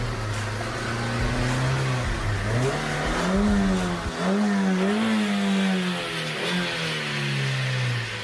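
Car engine running and revving, its pitch rising and falling several times.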